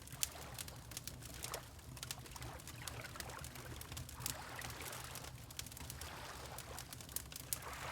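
Fireplace crackling with frequent sharp pops, over a steady low rumble, mixed with gentle water lapping that swells briefly about four seconds in and again near the end.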